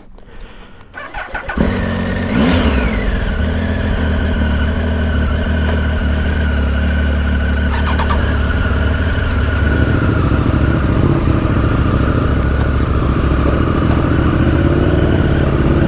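Triumph Tiger Sport 1050 three-cylinder motorcycle engine cranks briefly and catches about a second and a half in. It gives a quick rev that rises and falls, then settles into a steady idle.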